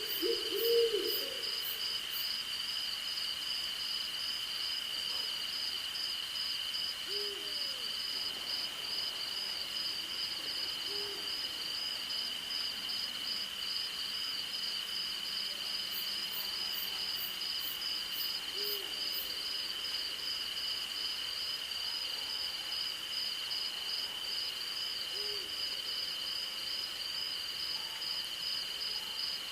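An owl hooting: short single hoots several seconds apart, the loudest about a second in. Under it a steady night chorus of crickets and other insects, one a fast pulsing trill and one a continuous high buzz.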